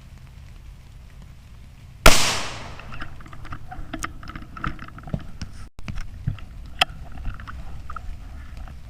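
.17 HM2 rimfire rifle fired once about two seconds in, a single sharp crack that fades quickly, followed by scattered small clicks and knocks. Steady rain and wind noise runs underneath.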